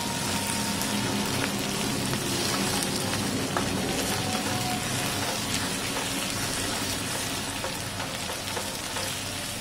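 Chopped onion and tomato sizzling in oil in a non-stick frying pan, a steady frying hiss, with a wooden spatula stirring and scraping through the mixture.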